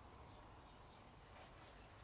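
Near silence: a low steady hum with a few faint, short high chirps scattered through it.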